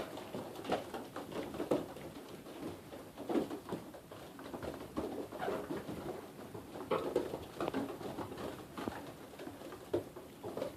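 Young racing pigeons cooing in a loft: many short, irregular coos with scattered light clicks and scuffs.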